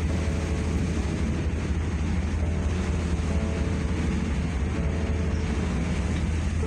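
Ship's engine running with a steady low drone heard on board, with a constant hiss over it.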